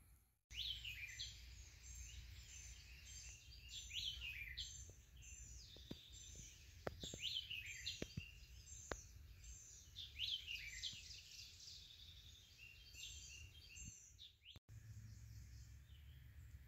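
Wild birds singing, many short chirps with quick falling notes repeating over a low steady rumble, with a few sharp clicks about seven to nine seconds in.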